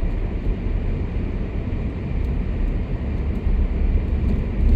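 Steady low rumble of a car driving over a snow-covered road, heard inside the cabin: tyre and engine noise.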